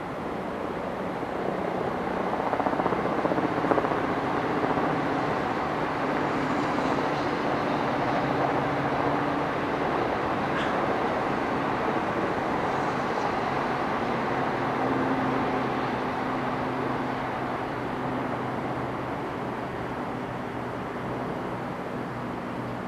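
Tokaido Shinkansen train passing on the elevated tracks. A rushing noise swells over the first few seconds, holds, then fades over the last several, with a steady low hum beneath it.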